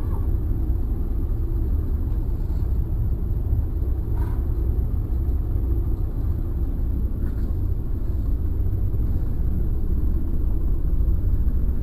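Steady low rumble, with two faint short ticks about four and seven seconds in.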